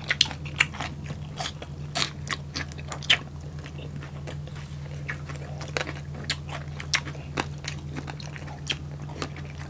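Close-up eating sounds of two people chewing crispy pork belly and vegetables: irregular crisp crunches and clicks, several a second, over a steady low hum.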